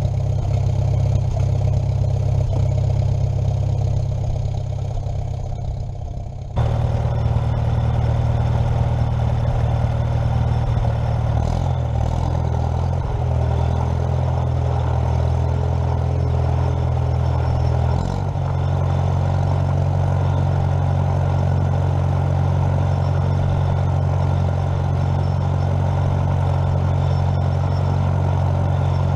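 An engine running steadily at idle, with an abrupt change in the sound about six and a half seconds in and a brief dip about eighteen seconds in.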